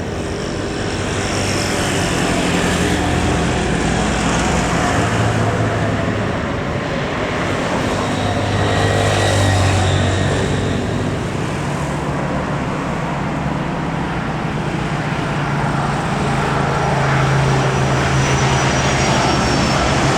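Jet airliner's engines heard close by: a loud steady rushing noise with low tones and a faint high whine, swelling about halfway through and again near the end.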